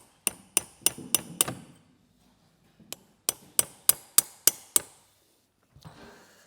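Hammer blows on metal in two quick runs of five and six sharp, ringing strikes, about three a second.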